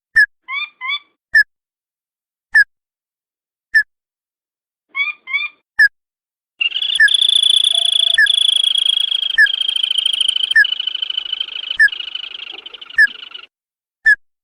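Lure recording of a crake (burung tikusan/tututan) calling: short, sharp whistled notes repeated about once every second, a quick run of paired notes about five seconds in, then a long buzzing trill from about halfway that fades out near the end while the sharp notes carry on.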